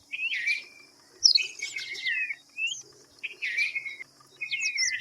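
Red-vented bulbuls calling: four bursts of short, sliding chirping phrases, spaced about a second apart.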